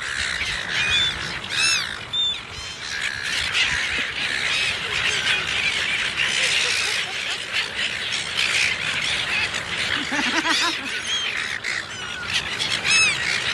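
A flock of birds calling and squawking over one another, a dense chorus of many short chirping calls, with a brief run of lower calls about ten seconds in.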